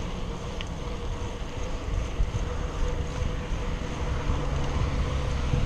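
Wind buffeting the microphone with a low, steady rumble of a bicycle rolling along, and a faint steady hum throughout.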